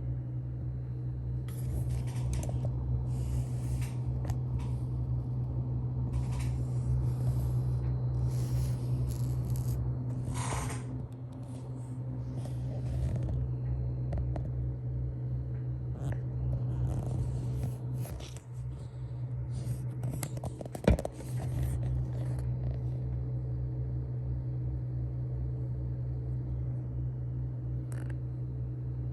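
Bottom-mounted AL120 case fans in a PC running with a steady deep low hum. Intermittent scraping and rustling sounds come and go over it, with one sharp click about two-thirds of the way through.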